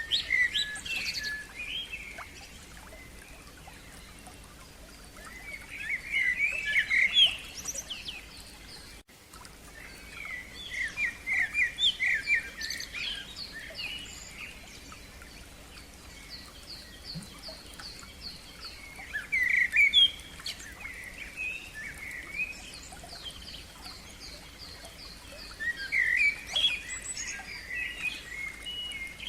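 Songbirds singing: one bird gives short phrases of varied notes every five or six seconds, while another keeps up fast series of repeated high notes between them.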